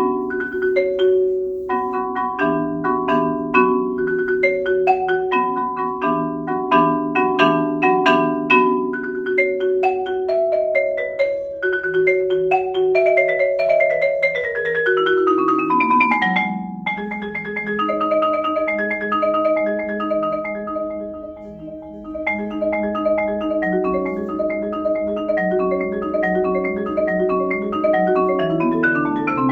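Solo marimba played with mallets: quick patterns of struck notes and chords, a descending run of notes about halfway through, then longer held notes that soften briefly before building again.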